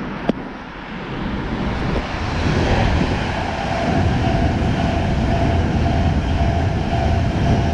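A passenger train passing through the station at speed: a rushing rail noise that builds over the first couple of seconds and then holds loud and steady, with a faint steady whine.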